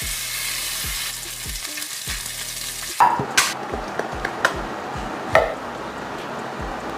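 Marinated chicken sizzling in hot avocado oil in a pan, with a steady hiss. From about three seconds in, a few sharp clinks of a utensil on the pan as the chicken is stirred.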